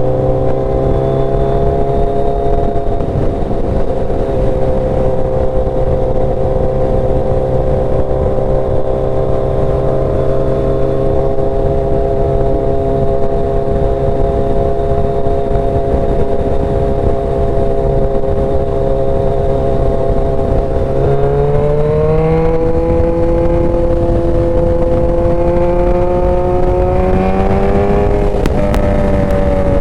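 Motorcycle engine running at a steady cruising speed under heavy wind rumble. The engine note rises about two-thirds of the way through and again near the end.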